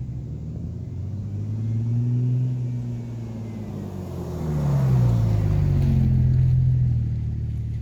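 A 2003 Ford Mustang's 3.8-litre V6 through a Magnaflow dual cat-back exhaust, its note swelling and easing twice; the second swell, about halfway through, is louder and held for about two seconds.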